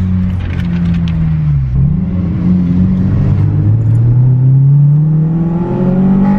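Car engine running. Its pitch dips briefly about a second and a half in, then climbs steadily as the car accelerates.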